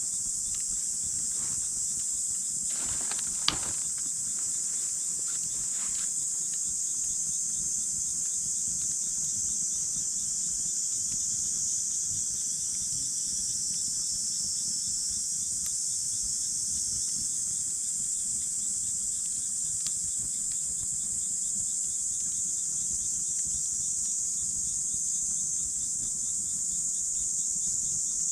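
A steady high chorus of crickets and other insects with a regular pulsing chirp, over a softly crackling campfire. A few pops from the fire in the first six seconds, the sharpest about three and a half seconds in.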